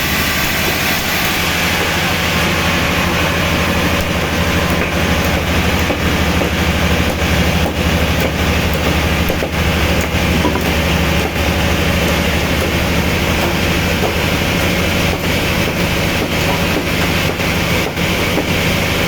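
Machinery running steadily: a low hum under an even rush of noise, likely sawmill machinery.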